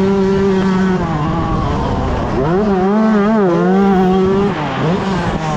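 125cc two-stroke motocross bike engine at race pace, pitch held high, dropping about a second in, climbing again halfway through, wavering, then dipping and picking up near the end as the throttle is shut and reopened.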